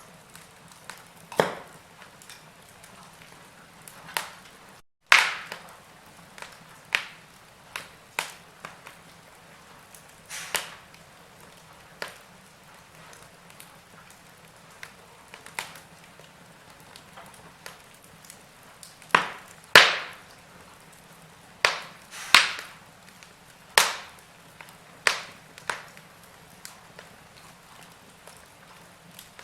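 Campfire crackling: irregular sharp pops and snaps, roughly one a second, over a faint steady hiss, with the loudest pops coming in a cluster in the second half. The sound cuts out for a split second about five seconds in.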